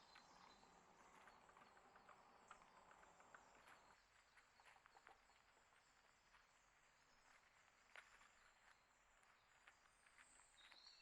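Faint outdoor ambience with scattered small clicks and ticks, and faint high bird chirps just after the start and again near the end.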